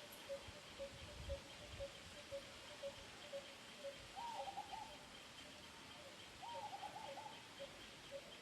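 Wild birds calling: a short low note repeats about twice a second the whole time, and two longer calls of several notes come about four and six and a half seconds in. A faint steady high buzz sits underneath.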